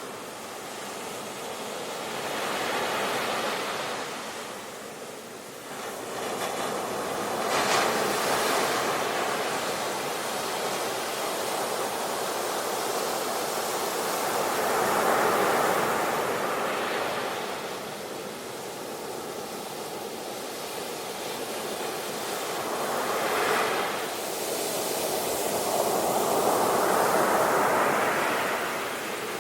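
Sea waves washing in and receding, the surf noise swelling and fading about five times.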